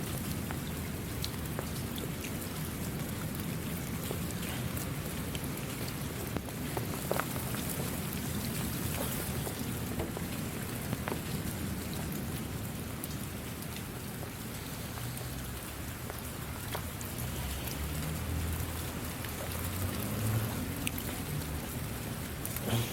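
Steady rain falling, with scattered sharp ticks of individual drops. A low rumble swells near the end.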